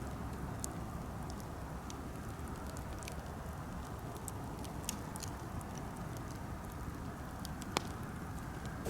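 Birch-wood campfire burning, with scattered small crackles and one sharper pop near the end over a steady low rush.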